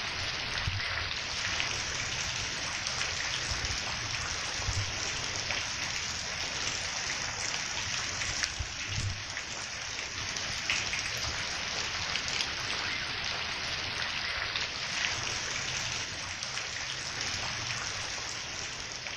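Steady rain falling, with raindrops pattering and tapping on leaves. A dense, even hiss is dotted with many small drop ticks and a few heavier knocks.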